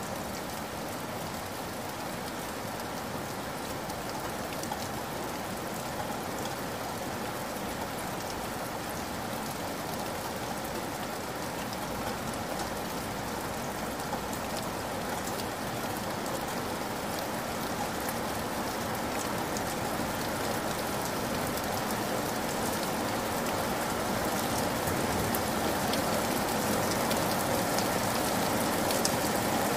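Heavy rain pouring onto wet ground: a steady hiss dense with the splash of individual drops, gradually growing louder.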